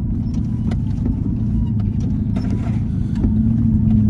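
Four-wheel-drive engine pulling in low range as it takes a sand dune, heard from inside the cabin, with scattered light knocks and rattles. A steadier, stronger engine note sets in about three seconds in.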